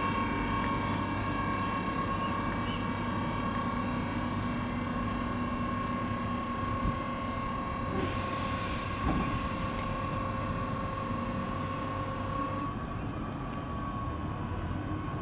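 Train sound: a steady rumble with several steady whining tones held throughout, a hiss from about eight seconds in that stops a few seconds later, and a few light knocks.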